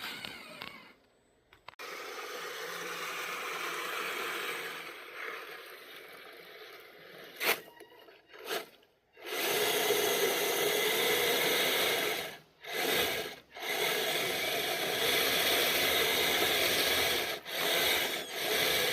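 Radio-controlled scale truck driving in stop-start bursts: motor and drivetrain whirring, with scraping and grinding against the ground. It pauses briefly a few times, with a couple of sharp clicks just before the longest run starts about halfway through.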